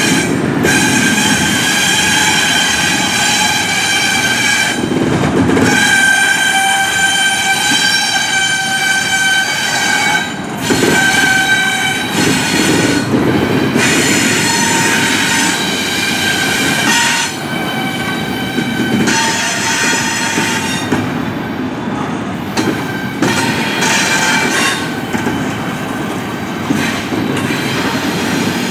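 Double-stack intermodal freight cars rolling past with a steady rumble, their steel wheels squealing in high steady tones that break off and resume every few seconds.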